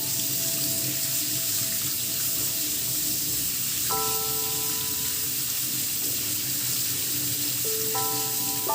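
Steady running water, like a tap running into a sink, with soft background music notes sounding at intervals.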